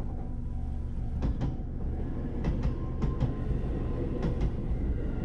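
Electric train passing over a level crossing: a steady rumble with four pairs of sharp clicks as its wheel sets run over the rail joints.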